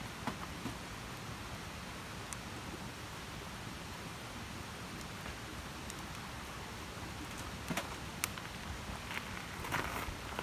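Wood campfire burning: a steady hiss with scattered sharp crackles and pops, a few more of them near the end.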